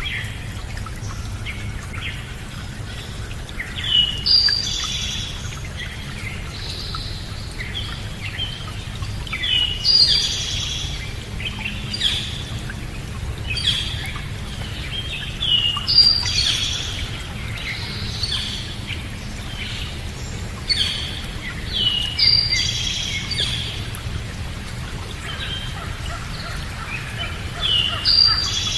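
Birds singing: a short, bright song phrase comes back about every six seconds, with scattered chirps in between, over a steady low background noise.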